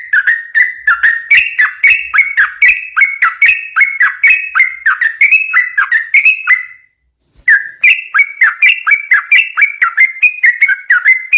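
Yellow-vented bulbul (trucuk) singing a fast, continuous run of short whistled notes, each sliding in pitch. The run breaks off for about half a second just past the middle, then resumes.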